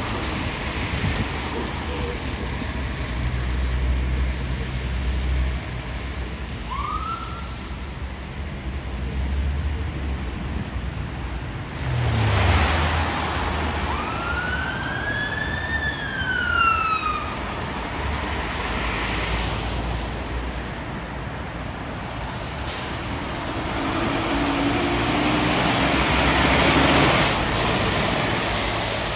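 Fire engine siren in wail mode over road traffic: a short rising note about seven seconds in, then one full wail that rises and falls a few seconds later. Heavy vehicle engines and tyres pass throughout, loudest about twelve seconds in and again near the end.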